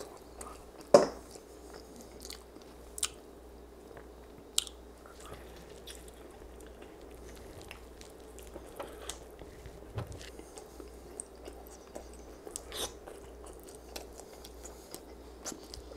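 A person chewing and biting honey garlic rib meat picked off the bone by hand, with scattered sharp mouth clicks and smacks; the loudest comes about a second in.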